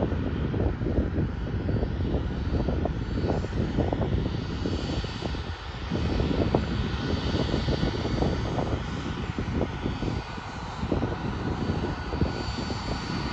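Jet airliner engines running, a loud steady rumble with a faint high whine over it.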